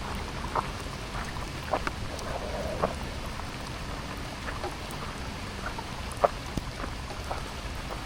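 Steady rain hiss with scattered louder drops landing in irregular sharp ticks.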